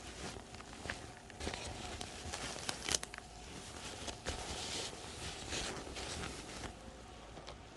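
Muffled rustling and scraping of clothing against a phone's microphone inside a pocket, with irregular small clicks and scuffs.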